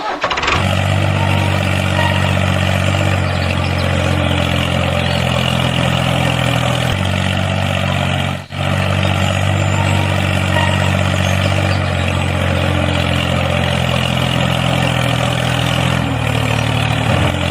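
Tractor engine idling steadily with a low, even chug, dropping out for an instant about eight and a half seconds in.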